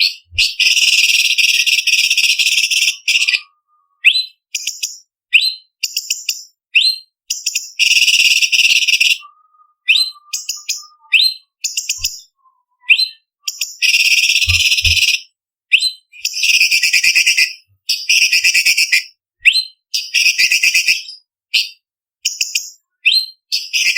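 Orange-bellied leafbird (cucak cungkok) singing a varied, harsh song: long rasping trills of one to three seconds alternate with short sharp chirps and quick rising whistled notes.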